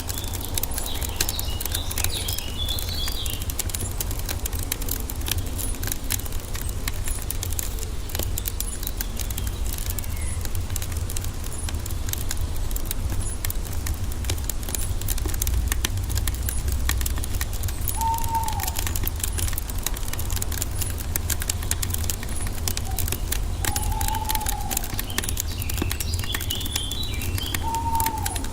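Wood fire crackling steadily, dense fine snaps over a low rumble of flames. Small birds twitter near the start and again near the end, and a short rising-and-falling bird call comes three times in the second half.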